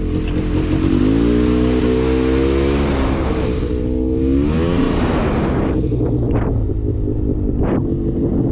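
Polaris Scrambler 400 two-stroke ATV engine revving up, easing off, then revving up again, with a rushing noise over the first half. Three short sharp knocks come near the end.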